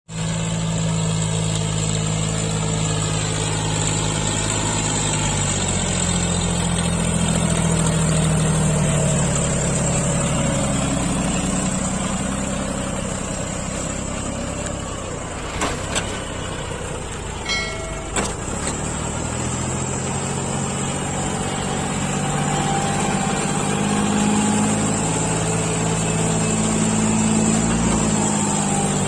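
John Deere four-wheel-drive tractor's diesel engine running under load, its pitch rising and falling as the revs change, easing off around the middle. A few sharp clicks or knocks come around the middle.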